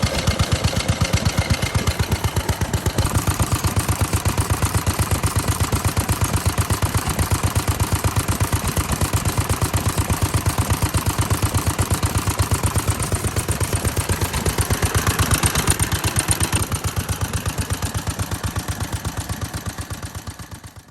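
A vintage Japanese stationary engine from around 1960 running at a steady idle, with regular, evenly spaced firing beats. The sound fades out near the end.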